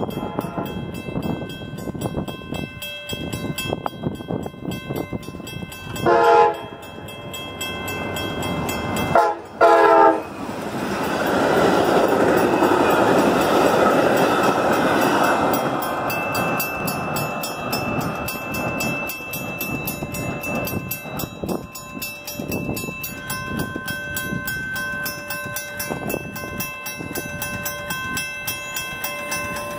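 Metra commuter train passing a grade crossing: the locomotive's horn sounds one blast about six seconds in and two more about three seconds later, then the train goes by loudly for several seconds before easing to the steady clatter of the passing bi-level cars. Crossing bells ring throughout.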